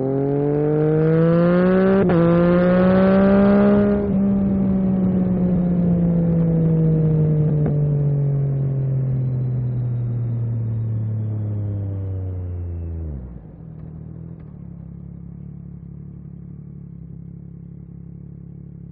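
Yamaha MT-09 SP's three-cylinder engine through an Akrapovic carbon racing exhaust, revs rising under acceleration for about four seconds with a brief break near two seconds. The throttle then closes and the revs fall slowly for several seconds before dropping suddenly to a steady idle about thirteen seconds in.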